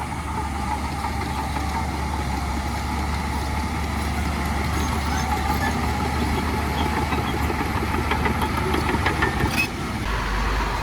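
Heavy earthmoving machine's diesel engine running steadily, with a few sharp clicks and clanks near the end.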